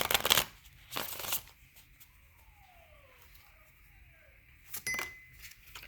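Tarot cards being shuffled and handled: three short rustling, riffling bursts, at the start, about a second in, and near the end.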